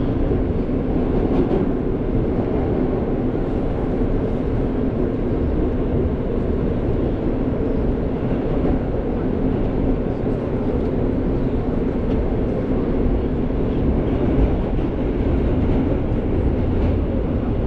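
New York City subway train (F line) running through the tunnel, heard from inside the car as a steady rumble and rail noise.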